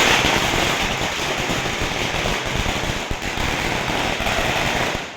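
A string of firecrackers going off in a rapid, dense crackle that begins suddenly and cuts off near the end.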